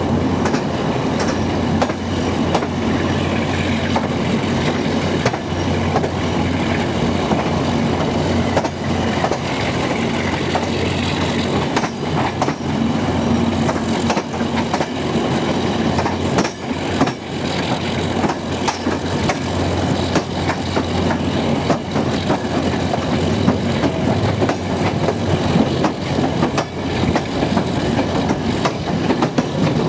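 Train running along the track: a steady rumble with frequent irregular clicks and knocks from the wheels over the rails.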